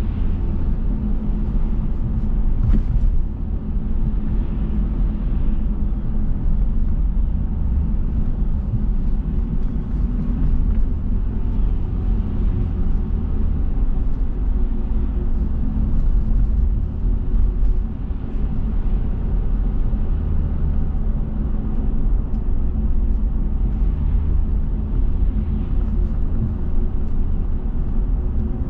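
A car driving: steady low road and engine rumble, with small rises and dips in level and an occasional faint tick.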